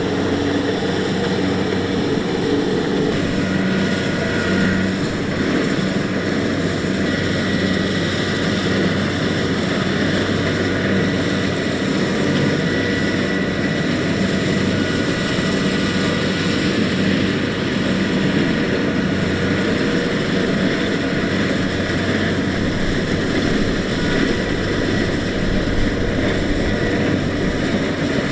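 Kubota DC70X rice combine harvester running steadily at work, a continuous engine drone with a thin high whine over it.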